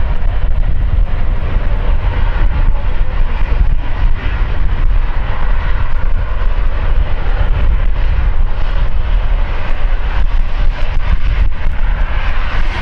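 Aircraft engines running: a loud, steady noise with a heavy low rumble, its higher part growing stronger near the end.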